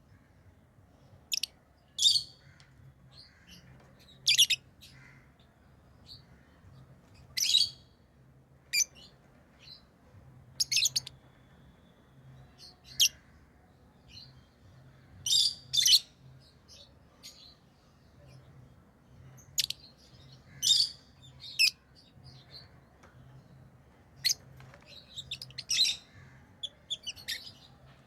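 Pet lovebirds chirping: short, high-pitched chirps every second or two, some in quick pairs or rapid little clusters, over a faint low hum.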